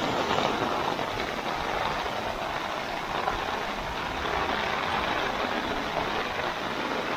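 Floodwater rushing through a swollen creek in a steady, dense noise, with heavy rain drumming on an umbrella close to the microphone.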